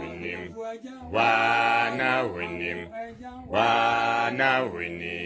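Unaccompanied male singing in a chant-like style, with two long held notes, one about a second in and another about three and a half seconds in.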